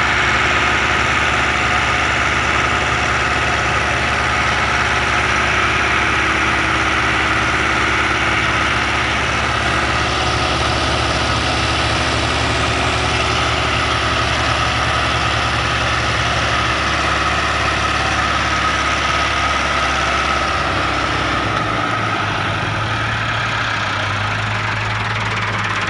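Massey Ferguson tractor diesel engine running steadily, its low engine note shifting to a different speed about two-thirds of the way through.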